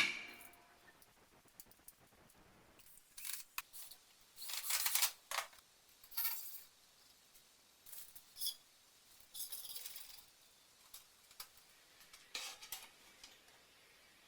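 Scattered clinks, clicks and short scrapes of small hard objects being handled, starting with one sharp knock.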